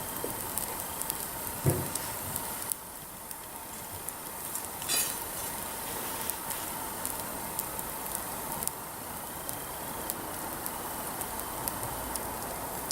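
Wood campfire crackling, with scattered small pops, one louder pop near two seconds in and a short hiss about five seconds in.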